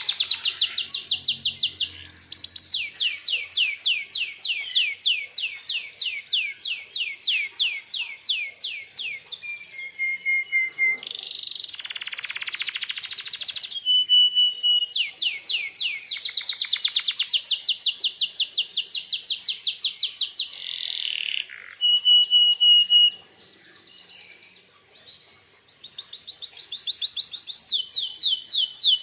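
Domestic canary singing vigorously: long, fast trills of rapidly repeated sweeping notes, broken by short steady whistled notes, with a brief softer passage about three-quarters of the way through before the trills return.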